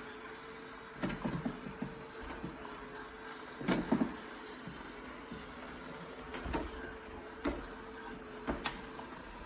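Robot vacuum running with a faint steady hum, with a few knocks and bumps; the loudest comes a little under halfway through.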